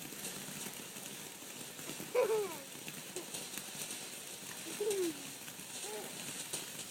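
A few brief wordless vocal sounds, short exclamations with sliding pitch, the loudest about two seconds in, over a steady high hiss.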